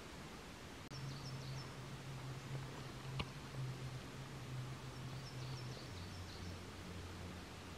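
Outdoor ambience: a small bird gives two short runs of quick high chirps, about a second in and again near the end, over a low steady hum. A single sharp click falls about three seconds in.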